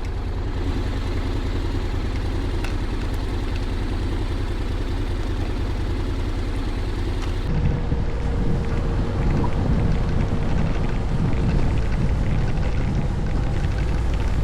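Honda Forza 750 maxi-scooter being ridden: a steady engine and road rumble with wind noise on the microphone. About halfway through, the low wind buffeting grows louder and gustier.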